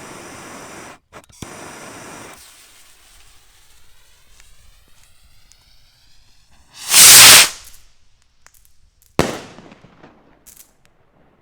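A small stick firework rocket launching with a hiss that fades as it climbs, then bursting with a very loud report about seven seconds in, followed about two seconds later by a second, sharper bang that dies away.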